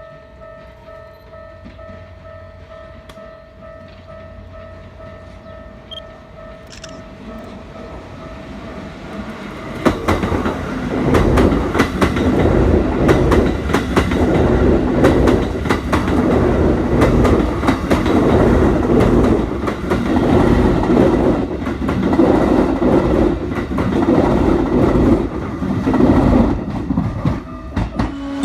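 Level-crossing warning bell ringing steadily, then about ten seconds in a Keikyu 1000-series train passes through the crossing, a loud rumble with wheels clicking over the rail joints that lasts to the end.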